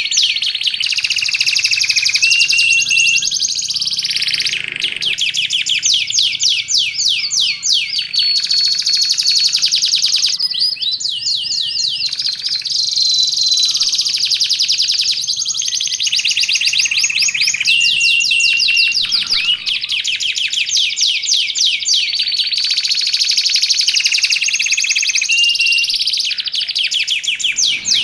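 Domestic canary singing nonstop in long rapid trills, with held whistled notes woven between the rolls.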